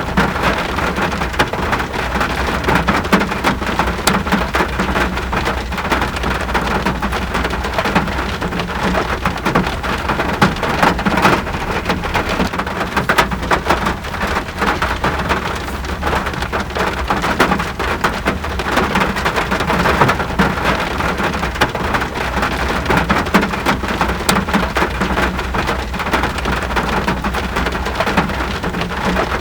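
Steady rain falling, with many close individual drops striking a surface over an even hiss and a steady low rumble underneath.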